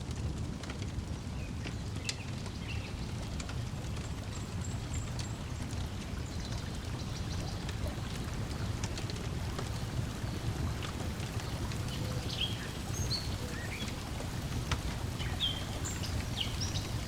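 Lakeside ambience: a steady wash of water lapping at the shore, with a wood fire crackling in scattered sharp snaps. Birds chirp briefly now and then, more often in the second half.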